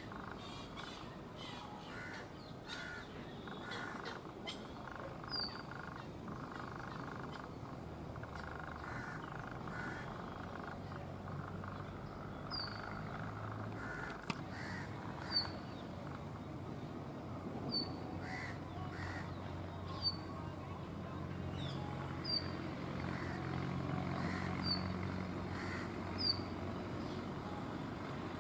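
Brown rock chat (Indian chat) calling: a short, high note that drops in pitch, repeated about every two to three seconds from about five seconds in. A faint low hum runs underneath.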